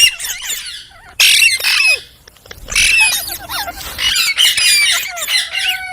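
Green parrots squawking and chattering: a loud harsh screech at the start, another burst a little after a second in, then a long run of warbling, gliding squawks from about three seconds on.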